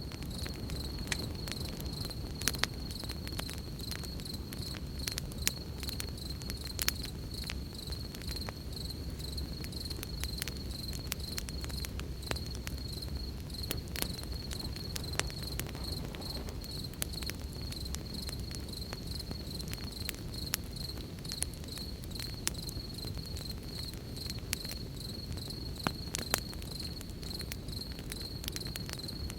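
Campfire crackling with scattered sharp pops, over a steady high, pulsing chirp of crickets and a low rumble.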